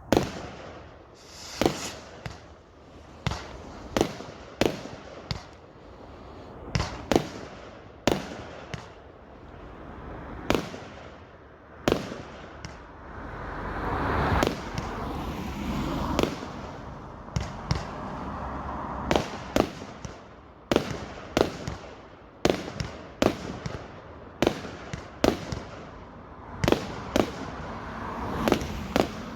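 Fireworks going off: a long, irregular series of sharp bangs, often less than a second apart, with a louder rushing, crackling swell about halfway through.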